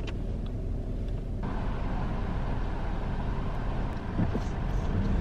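Car engine idling with a steady low rumble inside the cabin; about a second and a half in, a wider hiss joins the rumble.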